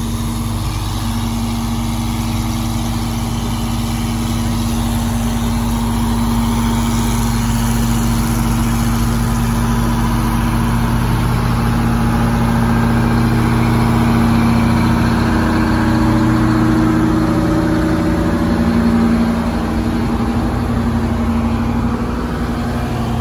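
Welded-rail train cars rolling slowly past, with a steady diesel engine hum that grows somewhat louder in the second half.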